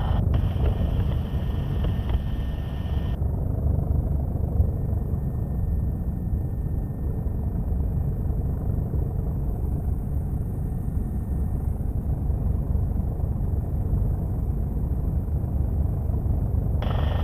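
Helicopter cabin noise: a steady low rumble of the engines and rotor. A brighter hiss over it at the start cuts off sharply about three seconds in.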